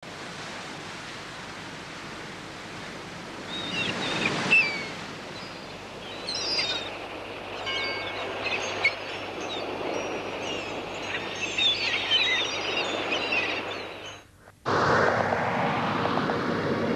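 Sea surf washing steadily, with birds calling in short chirps over it. About fourteen seconds in it cuts out briefly, then a louder passage begins, leading into music.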